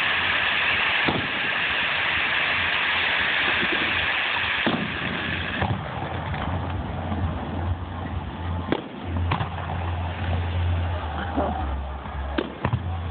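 Fireworks going off: a dense crackling hiss for about the first five and a half seconds, then a low rumble with several sharp bangs.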